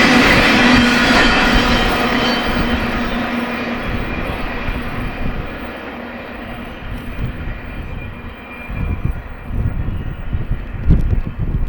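BNSF freight train's cars rolling past on the rails, the rolling noise fading steadily as the train moves away. Gusty low rumbling comes in near the end.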